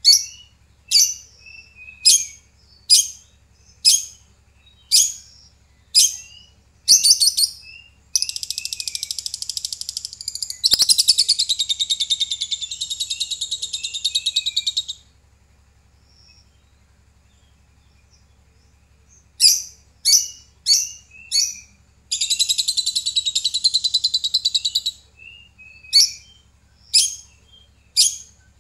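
Lovebird calling: sharp, shrill single chirps about once a second, broken by two long runs of fast, continuous chattering, the first lasting several seconds, with a pause of a few seconds midway.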